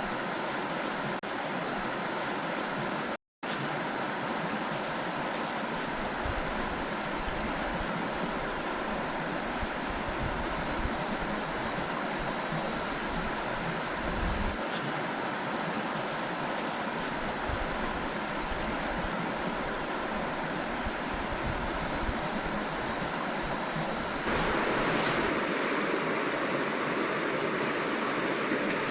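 Stream water flowing steadily, with a continuous high-pitched drone over it. There is a brief dropout about three seconds in, and the rush of water grows louder and fuller near the end.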